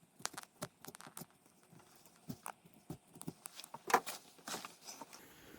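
Scattered, irregular clicks and small metallic taps of hand tools and hardware while machine screws and lock nuts are fitted and tightened, the loudest click about four seconds in.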